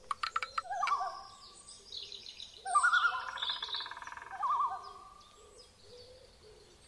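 Birdsong: birds chirping and calling, with warbling calls about a second in and again around the middle. There are a few quick clicks at the very start.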